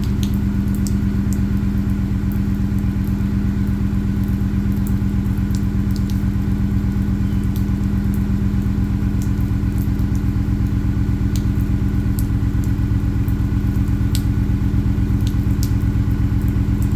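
A 2018 Ford F-150's engine idling steadily through a Magnaflow 19572 aftermarket exhaust after a cold start, with an even, deep exhaust note and a few faint ticks scattered through it.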